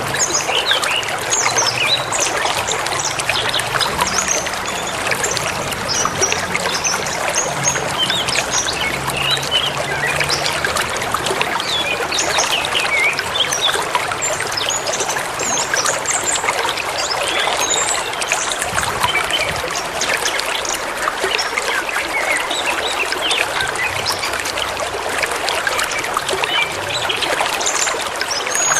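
River water rushing and splashing steadily, with many birds chirping and twittering over it throughout.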